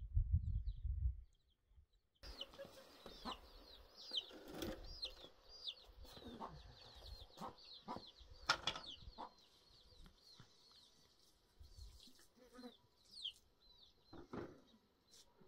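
Wind buffeting the microphone at first, then, from about two seconds in, small birds chirping steadily in quick, falling notes, with a few lower calls and clicks among them.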